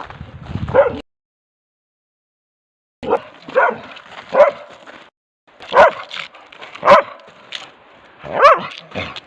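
A dog barking about seven times at irregular intervals, each bark with a bending pitch. The sound cuts out completely for about two seconds near the start.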